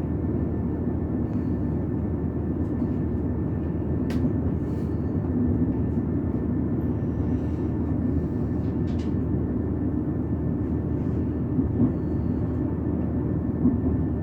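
Passenger train running along the line, heard from on board: a steady rumble of wheels and running gear, with a faint steady high whine and a few small clicks and rattles.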